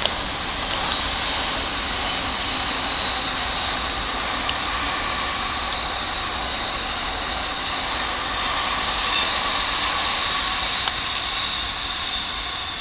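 Electric trains running on the tracks, a steady rolling rail noise with a few faint clicks.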